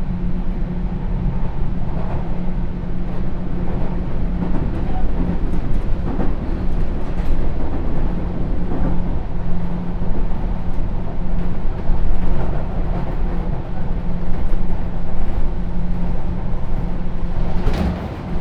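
Sotetsu New 7000 series electric train running along the line, a steady rumble and hum with occasional sharp clicks from the wheels over the track. The loudest click comes near the end.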